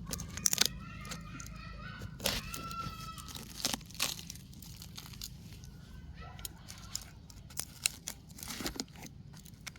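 Rotten wood and bark being broken apart and handled by hand, giving irregular crunching, tearing and snapping clicks.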